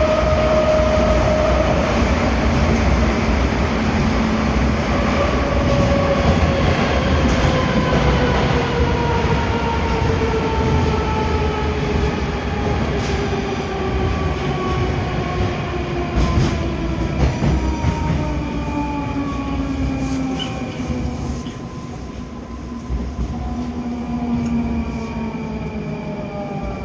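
Interior of a moving 81-740/741 Rusich metro train: rumbling wheel and tunnel noise under the whine of the traction drive, whose several tones fall steadily in pitch as the train slows, with a few rail clicks along the way.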